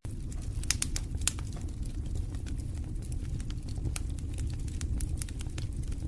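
Wood fire in a fireplace crackling, with sharp pops scattered throughout and several close together about a second in, over a steady low rumble of the flames.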